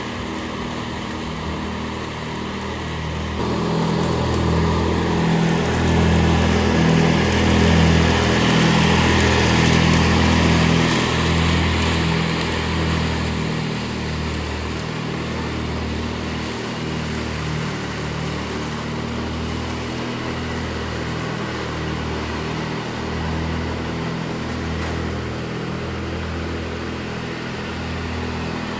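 Ride-on lawn mower engine running steadily, getting louder about three seconds in and easing back after about twelve seconds.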